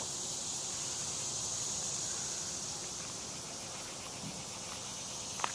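Insects calling steadily, a high, even buzz with no breaks, with a short low knock about four seconds in and a click near the end.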